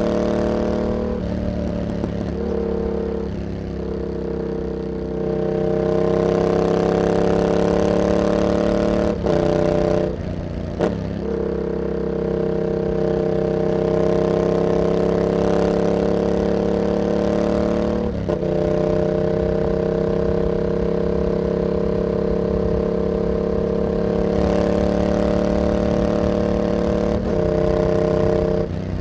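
Yamaha MT-07's 689 cc parallel-twin engine running through an aftermarket carbon hexagon exhaust with its dB killer fitted. It pulls under throttle with the note climbing slowly. The note breaks off briefly and changes pitch several times, at about a third of the way in, near the middle and near the end.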